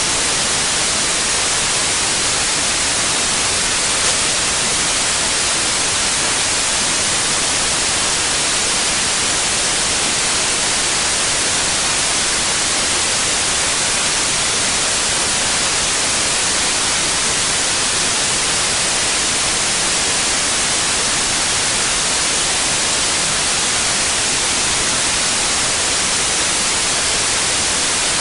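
Steady, unchanging white noise: an even hiss, brightest in the high end.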